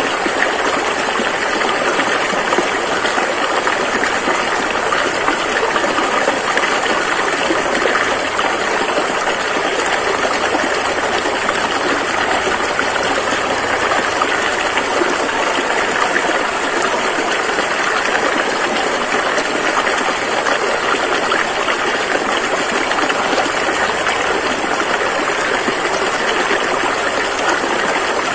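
River water rushing and flowing over rocks in a steady, unbroken wash.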